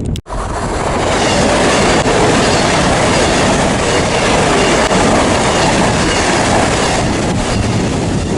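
A train passing close by, loud and steady, its noise building over the first couple of seconds after a brief break in the sound near the start.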